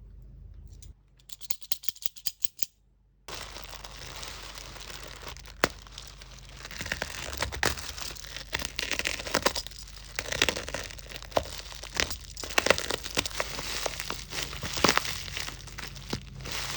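Small product packaging being opened and handled by hand: plastic crinkling and tearing with many irregular sharp clicks and taps. A quick run of clicks comes about two seconds in.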